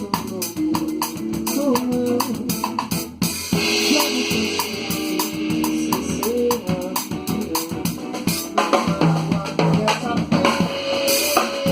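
Band music: a drum kit plays a steady beat with bass drum and snare, under held notes from pitched instruments.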